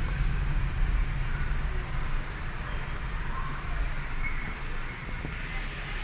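Steady low rumble of a car's engine and tyres heard from inside the cabin as it drives slowly.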